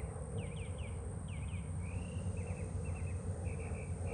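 Small birds chirping in quick series of short, falling notes, over a steady high-pitched insect drone and a low rumble.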